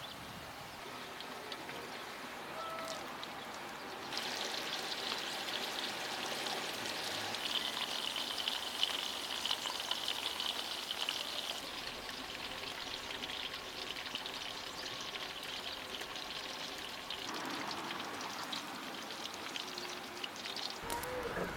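Whole green chili peppers sizzling in hot oil in a frying pan, a steady hiss with fine crackles that gets louder about four seconds in.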